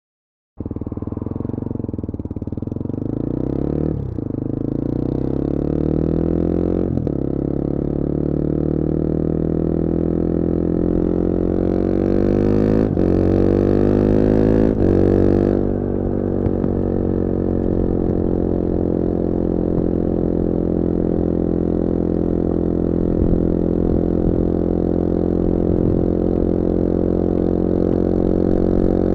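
2021 Bullit Hero 250's CF Moto-built 250cc four-stroke engine starting up after a short silence, then pulling away: its pitch climbs with breaks at upshifts about four and seven seconds in, keeps rising until about fifteen seconds in, then settles into a steady cruise.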